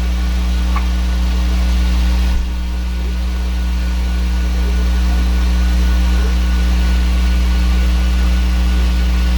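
3D printer running mid-print: a steady mechanical hum from its motors and fans.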